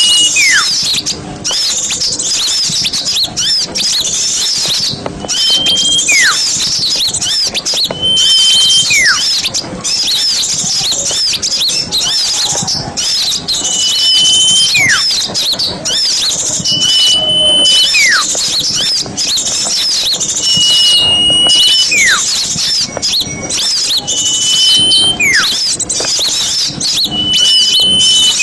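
A chorus of many small birds chattering and twittering in a dense high-pitched din, used as a lure for forest birds. Over it a whistle repeats about every three seconds: a short steady high note, then a note sliding steeply down in pitch.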